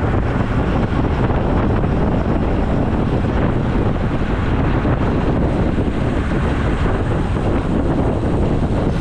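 Steady wind noise buffeting the microphone of a camera riding along on a moving road bicycle, heaviest in the low rumble.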